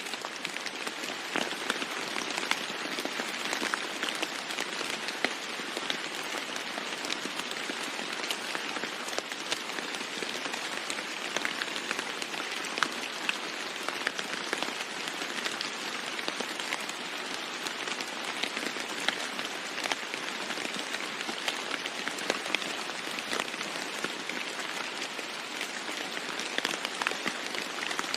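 Steady rain falling on a roof: an even hiss dotted with many small, sharp drop impacts.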